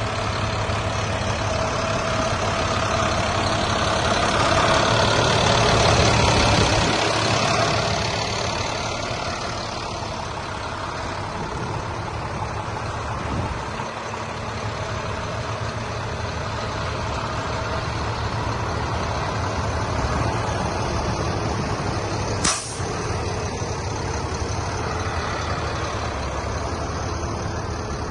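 A medium-duty International 4300 truck's diesel engine running steadily. It swells louder for a few seconds around five seconds in, and one short, sharp burst of noise comes about twenty-two seconds in.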